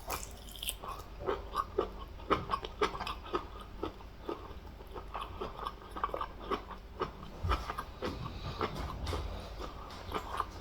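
Close-miked wet chewing and lip smacking, a quick irregular run of smacks and clicks, from someone eating fufu with soup and meat.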